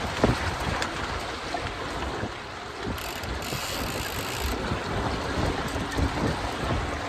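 Wind buffeting the microphone, with water and boat noise from a Hobie Cat Getaway catamaran under sail, plus a brief brighter hiss about halfway through.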